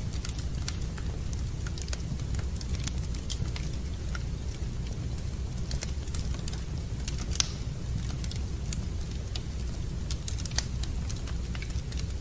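Wood fire crackling in a fireplace: scattered sharp pops and snaps over a steady low rumble, with a louder pop about seven seconds in and another near ten seconds.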